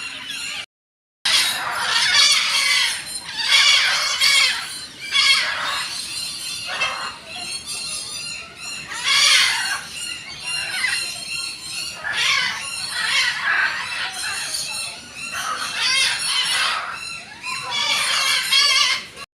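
Birds screeching, loud harsh calls repeated every second or two.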